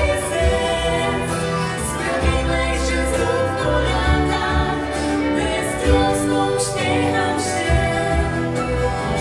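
A band playing live, with singing over bass and regular percussion hits.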